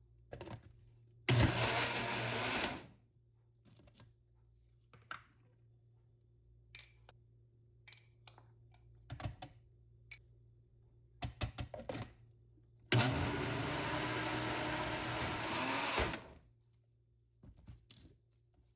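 A small electric mixer runs in two short bursts, the first about a second and a half long and the second about three seconds, as it beats batter ingredients. Light taps and clicks of utensils against a bowl come between the bursts.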